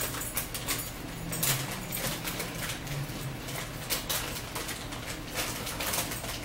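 Close-miked chewing and mouth noises, many irregular wet clicks and smacks.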